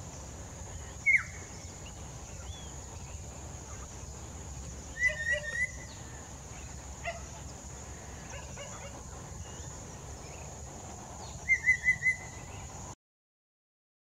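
Collared palm-thrush singing in short whistled phrases: a falling whistle about a second in, warbled phrases around five and seven seconds, and a quick run of four loud notes near the end.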